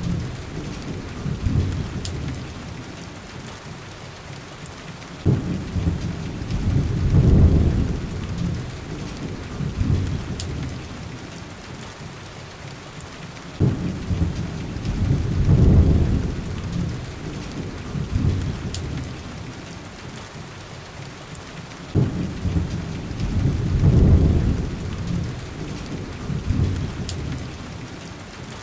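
Steady rain with low thunder rumbles recurring about every eight seconds, each starting suddenly, swelling for a couple of seconds and then fading. A few faint sharp ticks sit on top.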